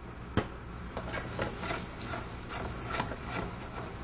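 Flour-dredged chicken pieces frying in hot oil in a sauté pan, sizzling and crackling irregularly, with a sharp knock about half a second in.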